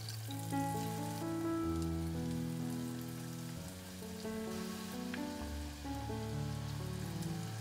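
Chicken wings deep-frying in oil with a steady sizzle, under background music of held notes. Tongs click lightly against the pot near the start and again about five seconds in as the wings are turned.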